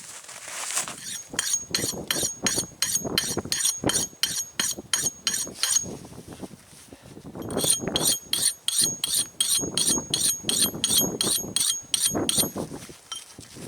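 Hand saw cutting wood in quick back-and-forth strokes, about four a second, the blade giving a thin metallic ring. Two bouts of sawing with a short pause between them.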